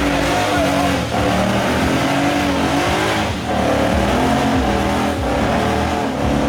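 A Ford Mustang engine held at high revs during a burnout, its pitch rising and falling as the throttle is worked, over the hiss of spinning tyres; the revs dip briefly about three times.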